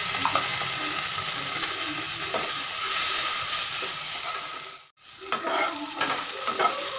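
Onions and ginger-garlic paste sizzling in hot oil in a non-stick kadai while a spatula stirs and scrapes through them. The sizzle breaks off abruptly about five seconds in, then comes back with sharper scraping strokes.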